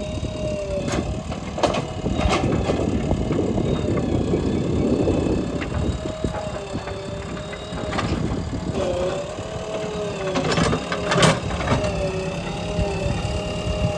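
Diesel engine of a JCB digger running, with a whining tone that dips and rises in pitch and several sharp clanks, the loudest about eleven seconds in.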